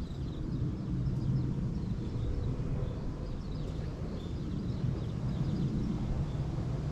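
Outdoor ambience: a steady low rumble, like distant traffic or a passing aircraft, with faint scattered bird chirps high above it.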